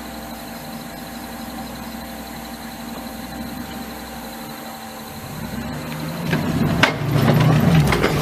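Vehicle engine running steadily at idle, then growing louder and rougher about five seconds in, with a few sharp knocks.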